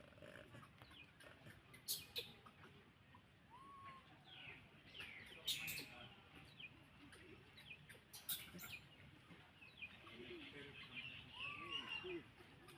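Faint, scattered high chirps and squeaks, some sliding up or down in pitch, broken by a few sharp clicks about two, five and a half, and eight seconds in.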